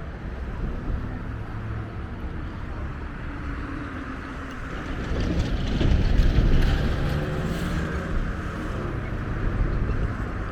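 Diesel-hauled Metra commuter train running past with a low, steady engine drone and rumble that grows louder about five seconds in.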